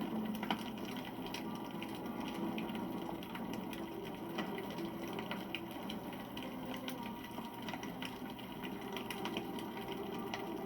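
Wood campfire burning: a steady rush of flames with many small crackles and pops scattered throughout.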